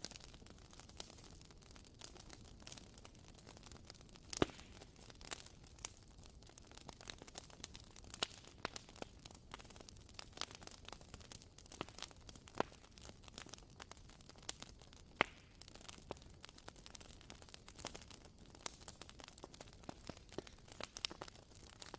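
Wooden wick of a WoodWick candle crackling as it burns: faint, irregular small pops and clicks over a low hiss, the sharpest pop about four and a half seconds in.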